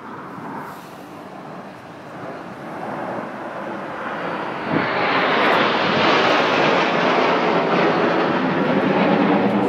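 Red Arrows' BAE Hawk jets flying past: jet engine noise grows from a distant rumble to loud about five seconds in, then holds.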